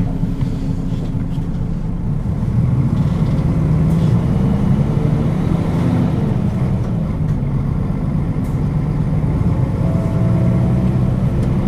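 Diesel engine of a Nissan Diesel KL-UA452KAN city bus running, a steady low hum that grows a little louder about three seconds in.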